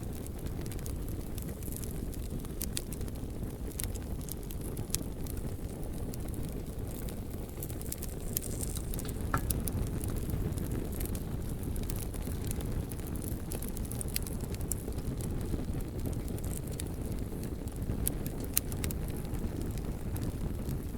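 Bonfire of logs burning: a steady low rumble with scattered sharp crackles and pops.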